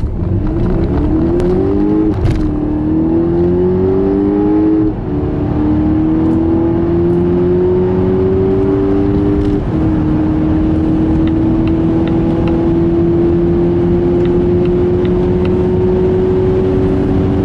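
Volvo XC90 T8's four-cylinder petrol engine under hard acceleration, its note rising steadily in each gear and dropping sharply at upshifts about two, five and nine and a half seconds in; in the last gear it climbs only slowly.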